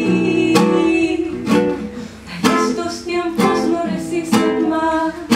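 Live band music led by a strummed acoustic guitar, with a stroke about once a second.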